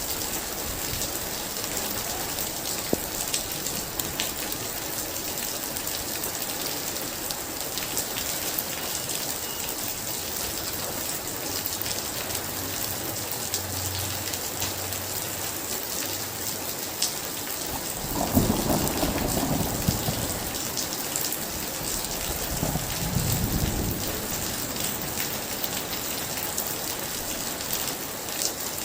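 Heavy rain falling steadily, with a roll of thunder rumbling about two-thirds of the way through and a weaker second rumble a few seconds later.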